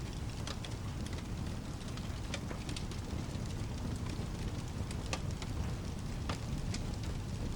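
Fireplace crackling, with scattered sharp pops, over a steady hiss of rain and a low steady rumble.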